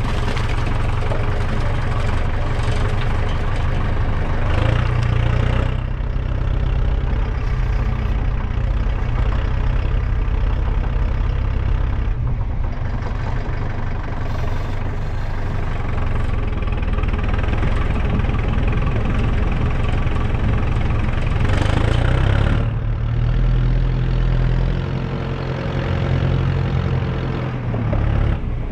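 Tractor engine running steadily, rising louder twice: once about four seconds in and again near the end.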